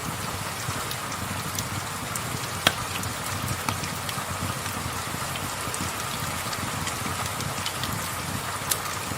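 Steady rain with scattered sharp crackles and pops from a wood fire, the loudest a little under three seconds in.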